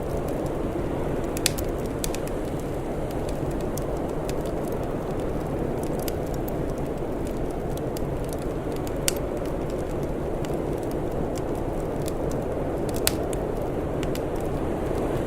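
Wood fire crackling, with scattered small ticks and three sharper pops over a steady low rushing noise.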